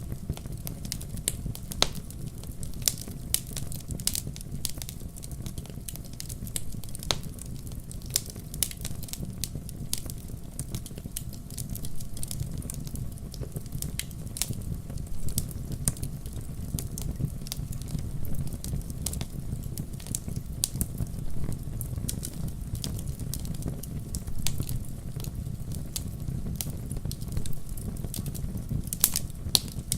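Wood fire crackling in a fireplace: irregular sharp pops and snaps from the logs over a steady low rumble of the flames.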